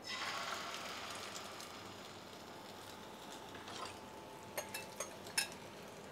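Egg and grated potato batter poured into hot oil in a nonstick frying pan: a sudden burst of sizzling that eases within a couple of seconds into a steady gentle sizzle, with a few sharp ticks from the hot oil about a second before the end.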